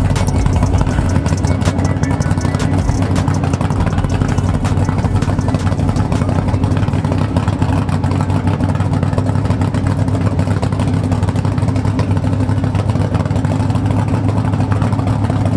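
Two drag-race cars' engines running steadily while staged at the start line, one of them a Mercedes-AMG E63. Music plays along with them.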